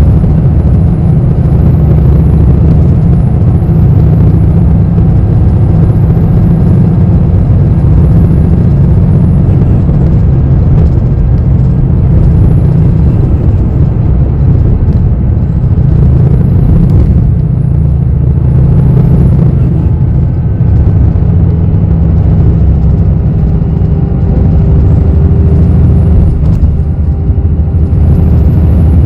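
Inside a moving city bus: a steady, loud low rumble of engine and road noise, with a faint high-pitched whine that rises and falls over it.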